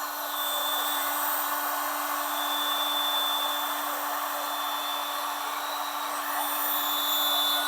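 Heat gun running steadily: a continuous rush of blown air with a constant motor hum, being used on freshly poured epoxy resin to bring up the lacing cells.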